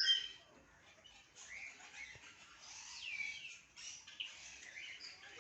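Aviary birds chirping and calling, high-pitched, with a loud call right at the start and a falling whistle about three seconds in.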